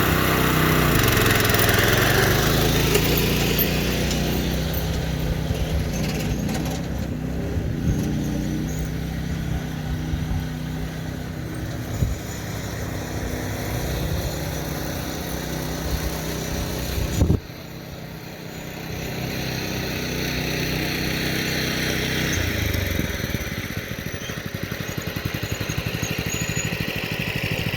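Predator 212 single-cylinder four-stroke engine of a homemade garden tractor running under load, its note rising and falling as the throttle and load change. A sharp knock comes about 17 seconds in, after which the engine sounds quieter for a few seconds before picking back up.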